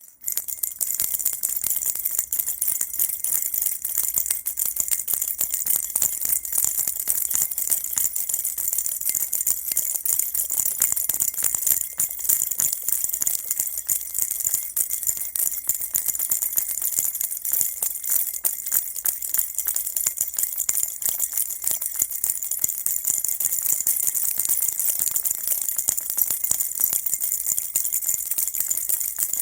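Baby rattle shaken nonstop, a dense, bright jingling rattle of many quick small clicks with a faint ringing in it.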